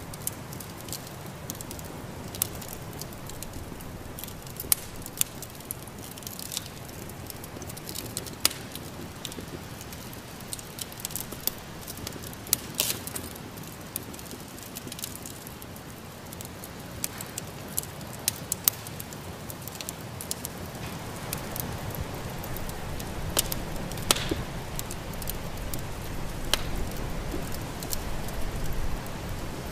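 Wood fire in a fireplace crackling, with frequent sharp pops and snaps, over a steady rushing haze of storm wind that swells in the second half.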